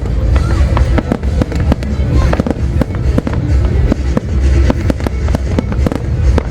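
Dense, continuous fireworks barrage: rapid bangs and crackling shots, several a second, over a deep, steady rumble.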